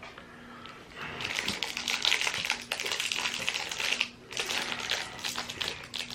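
Wrapper crackling and crinkling in rapid bursts as a toffee bar is unwrapped by hand, starting about a second in, with a brief pause near the two-thirds mark.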